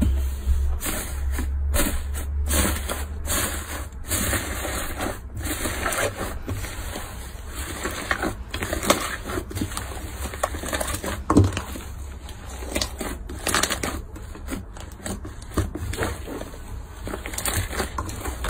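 Slime being squeezed and pressed by hand, giving a steady run of irregular crackling and popping clicks.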